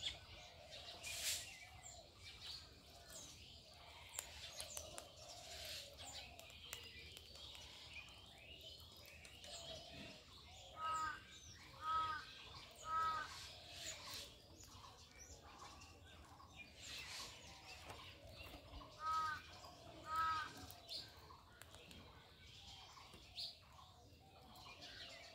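Birds chirping, with one louder call repeated three times about a second apart near the middle and twice more later.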